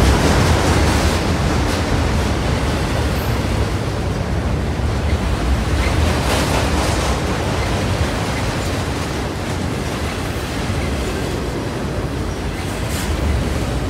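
Union Pacific freight train's enclosed autorack cars rolling past close by: a steady rumble of wheels on rail with a noisy wash over it and a few light clicks.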